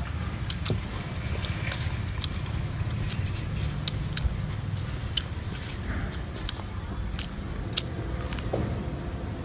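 People chewing soft Cambodian cakes close to clip-on microphones: scattered sharp mouth clicks and smacks over a low steady rumble.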